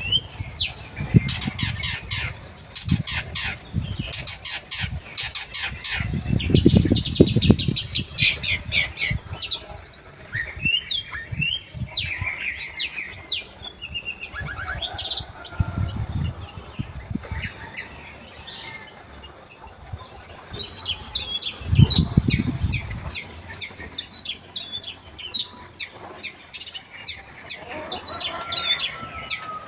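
Long-tailed shrike (cendet) singing a fast, varied chattering song of sharp chirps, trills and harsh notes, with a few dull low thumps mixed in.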